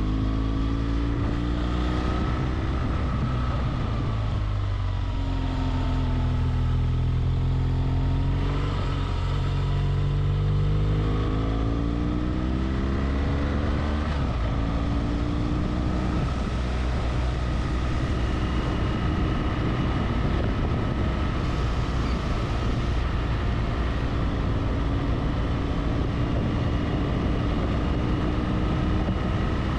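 Motorcycle engine running under way on the road, its pitch falling and rising several times with the throttle in the first fifteen seconds, then holding steadier.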